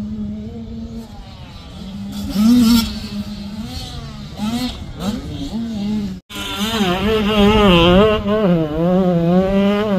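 Dirt bike engine running on a motocross track, its pitch rising and falling with the throttle. The sound cuts out sharply about six seconds in and comes back louder.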